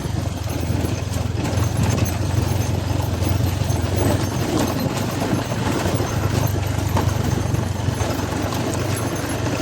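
Motorcycle running at low speed over a rough, bumpy track: a steady low engine drone with frequent small knocks and rattles from the bike jolting over the ground.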